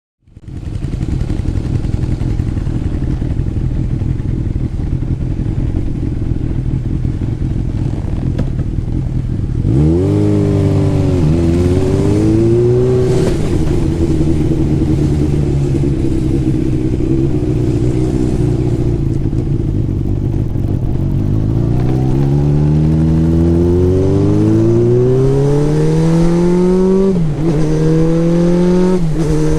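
Motorcycle engine running steadily at low revs, then pulling away. Its pitch climbs and drops back at each upshift, twice about a second in after it sets off and twice more near the end.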